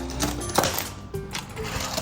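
Background music over toy trains rattling along a wooden BRIO track, with a sharp click about half a second in.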